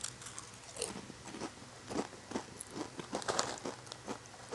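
Tortilla chips being chewed: a string of irregular crisp crunches.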